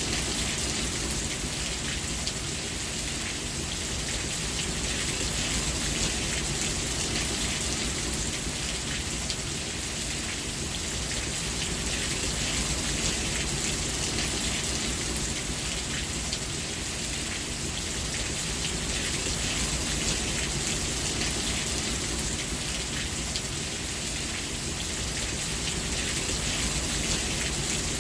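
Steady rain falling: a dense, even hiss of many fine drop ticks that holds unchanged throughout.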